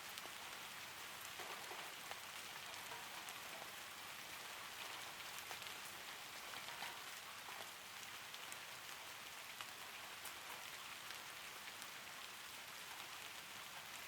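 Gentle rain falling steadily: an even hiss dotted with many small drop ticks.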